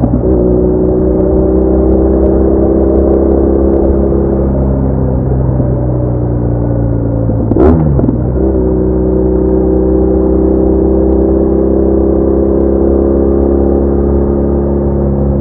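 BMW R1200R boxer-twin motorcycle engine running steadily at road speed, with a brief break and dip in the engine note about halfway through.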